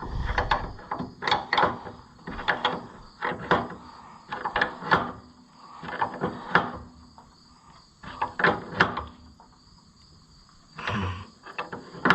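An open-end wrench clinking and scraping on a nut as a carriage bolt is tightened in short strokes, with the wrench taken off and refitted between turns. The clusters of metal clicks come roughly every second, with pauses between some of them.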